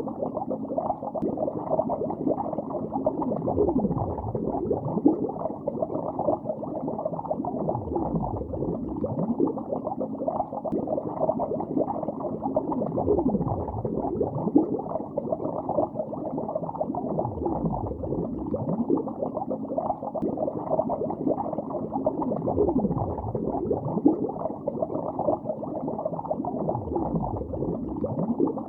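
Bubbles rising underwater, heard from below the surface: a continuous, muffled bubbling with no high sounds, swelling in a slow sweep about every five seconds.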